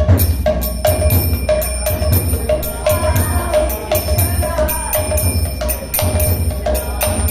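Kirtan music: small hand cymbals ringing on a steady beat of about two strokes a second, over a deep low drum beat.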